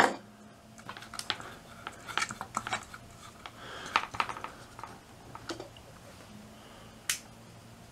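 Light clicks and scrapes of hard plastic and metal as a repaired LED light bulb is screwed into its lamp base, with one sharper click about seven seconds in.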